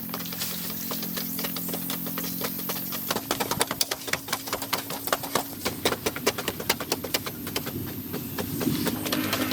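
Rapid, irregular clicks and taps, growing denser after about three seconds, over a steady low hum of held tones.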